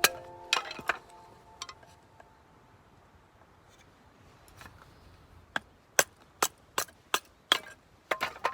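A series of sharp knocks, a few scattered at first, then a quicker run of about two to three strikes a second in the second half.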